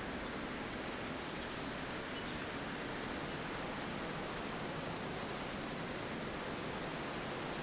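Wind blowing steadily through forest trees, an even, unbroken noise with no distinct bird calls standing out.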